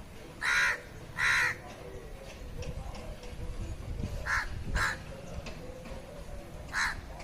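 A crow cawing: five short caws, two close together near the start, a quick pair about halfway through, and one more near the end.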